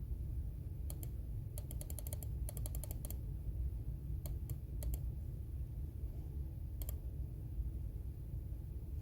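Computer keyboard typing: two quick runs of keystrokes in the first three seconds, then a few scattered single key presses. A steady low background hum runs underneath.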